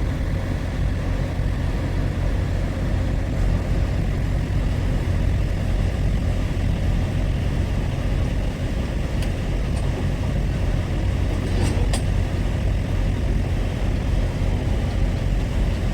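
Truck running on the road, a steady low rumble of engine and road noise, with a couple of faint clicks about two-thirds of the way through.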